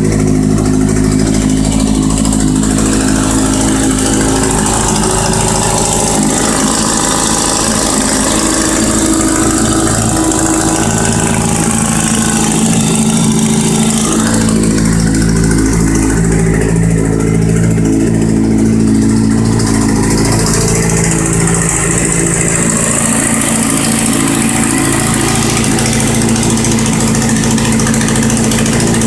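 Kawasaki Z750's inline-four engine idling steadily, with an ugly noise from the front of the engine that sounds like the engine knocking. The noise comes from a small plate cracked loose at the mouth of the exhaust header, a fault the dealer calls chronic on the Z.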